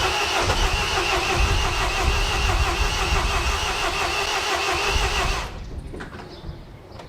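Starter motor cranking the MINI R56's 1.6 HDi DV6 four-cylinder diesel with a steady whine, the engine not catching; the cranking stops abruptly about five and a half seconds in. It is the engine refusing to start.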